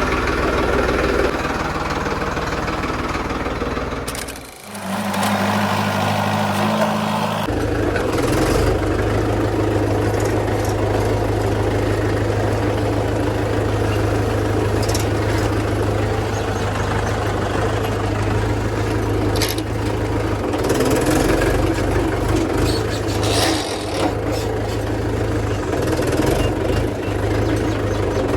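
Tractor diesel engine running steadily under the load of a thresher, with a brief drop in loudness about four and a half seconds in and an abrupt change in tone a few seconds later.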